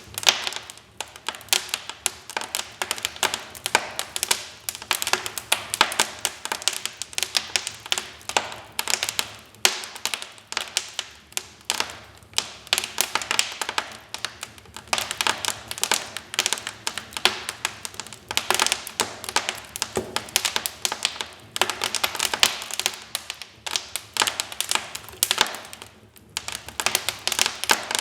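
Wood fire crackling: dense, irregular snaps and pops of burning logs.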